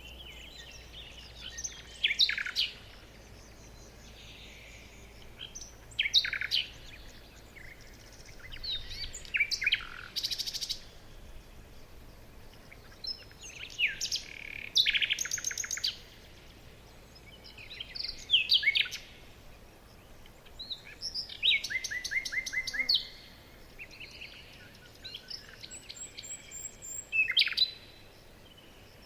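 Several songbirds singing and chirping: bursts of quick notes, rapid trills and sweeping whistles every few seconds.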